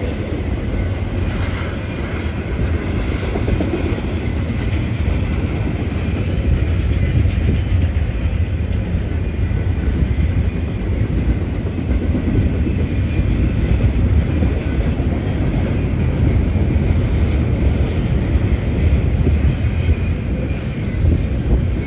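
Freight cars of a BNSF intermodal train rolling past at speed: a steady rumble of steel wheels on rail, with clicking over the rail joints.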